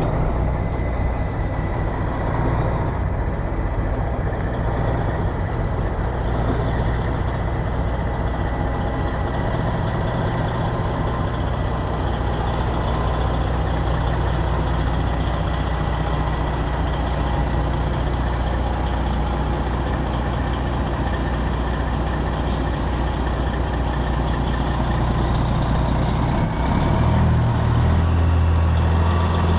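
Semi truck's Detroit Diesel 12.7 engine running steadily with a deep drone, its note changing about three seconds before the end.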